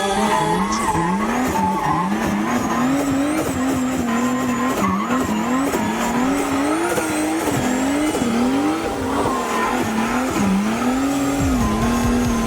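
1000 hp Lexus drift car's engine revving hard, its pitch climbing and dropping over and over about once a second, with tyres squealing as the car drifts.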